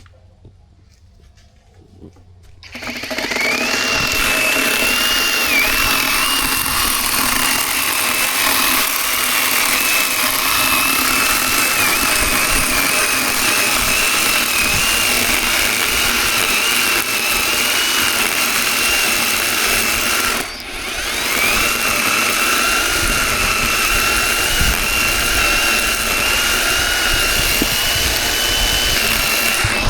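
Zhipu 48V cordless electric chainsaw starting up about three seconds in and running with a steady high whine that wavers slightly; it stops briefly about two-thirds of the way through and starts again.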